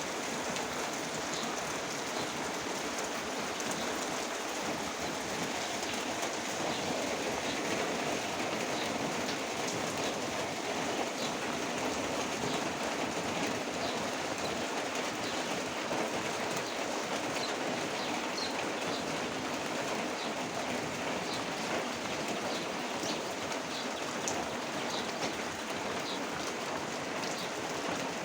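Heavy rain falling steadily, an even hiss with scattered drops ticking through it.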